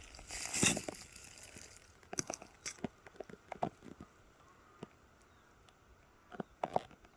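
Rotten wood and bark being broken up by hand: a rustling tear about half a second in, then scattered sharp cracks and crunches, with a last pair of cracks near the end.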